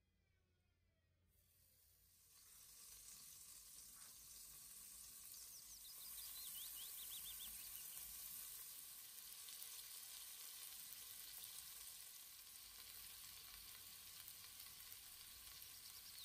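Raw meatballs sizzling in hot oil in a nonstick pot as they are laid in and start to fry. The sizzle rises about a second and a half in and then holds steady.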